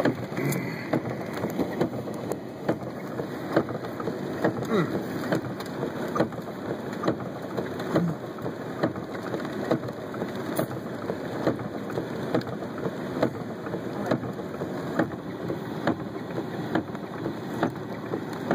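Storm rain falling steadily, with irregular sharp taps of drops striking a nearby surface.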